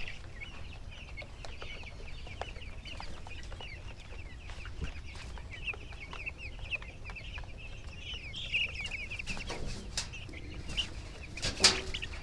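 A flock of 13-day-old broiler chicks peeping constantly, many short high cheeps overlapping. A few light knocks are heard, and a louder scuffle comes near the end.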